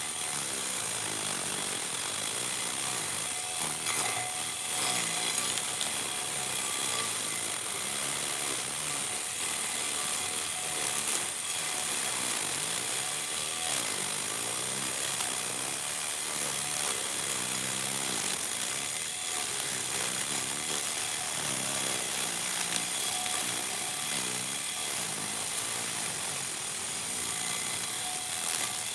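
Small electric motor of a homemade miniature lawn mower running steadily, whirring.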